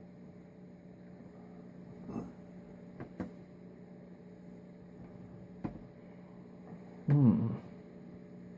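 A few light clicks and taps of small carburettor parts being handled, over a steady electrical hum. About seven seconds in, a short hummed voice sound from the man.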